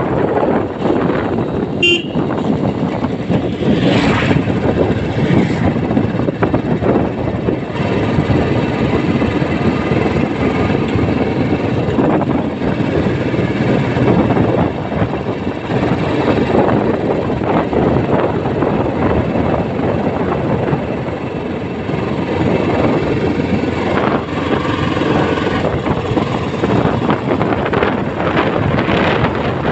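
A 2021 Royal Enfield Classic 350's 349 cc single-cylinder engine runs steadily while the bike is ridden on the road, with a short horn toot about two seconds in.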